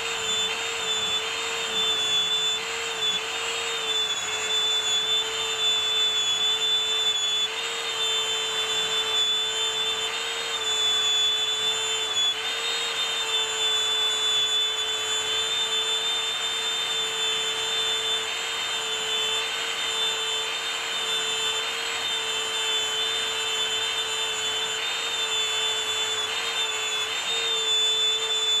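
An electric power tool's motor running steadily and continuously, with a strong steady hum and a high whine whose pitch wavers slightly now and then.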